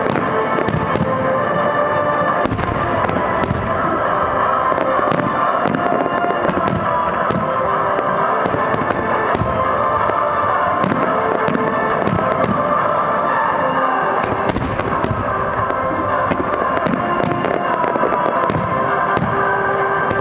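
Aerial firework shells bursting in a rapid, continuous series of sharp bangs, with music for the display playing steadily underneath.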